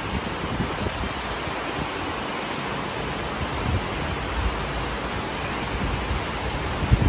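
Heavy tropical rain falling steadily, a constant hiss, with an uneven low rumbling underneath that swells near the end.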